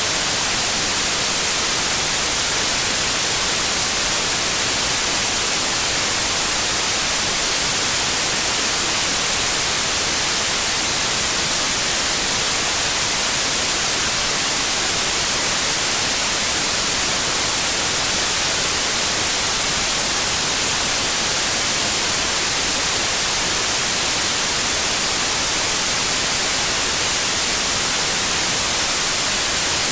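Steady white noise: an even, unchanging hiss, brightest in the treble, with no tones or sudden sounds.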